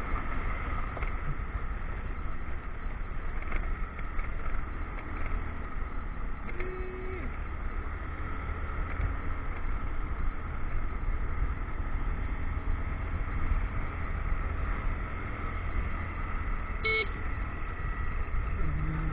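Motorcycle engine running steadily under way, with wind and road noise on a helmet or action-camera microphone.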